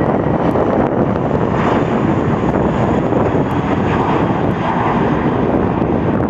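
Aircraft engines running loud and steady as an airliner passes on the runway.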